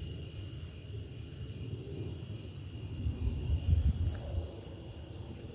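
Night insects, crickets, chirping in a steady high chorus, with a low uneven rumble underneath that swells about three to four seconds in.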